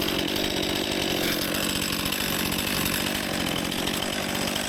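Stihl MS261 C-M two-stroke chainsaw running steadily while cutting the felling cut of a tree that leans slightly backwards.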